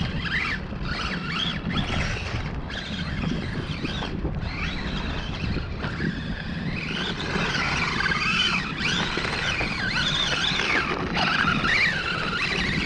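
Electric motor of a radio-controlled pickup truck whining in repeated rising and falling glides as the throttle is blipped. The wheels spin and the truck fishtails on the wet surface for lack of traction.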